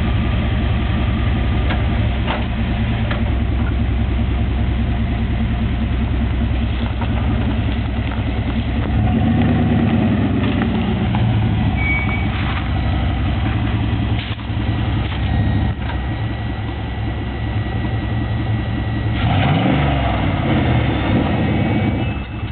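Dodge Ram pickup's engine idling, its pitch rising and falling briefly twice, about nine seconds in and again near the end, with a few faint sharp clicks.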